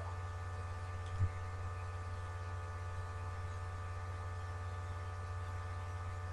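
Steady electrical mains hum and buzz, with one short soft tap about a second in.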